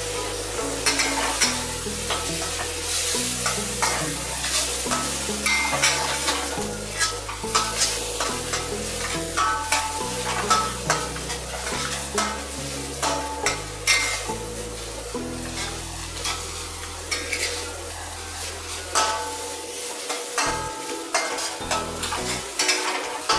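Metal spatula scraping and clacking against a wok, stirring ground spice paste as it fries and sizzles in oil. The scrapes come in quick, uneven strokes over a steady sizzle.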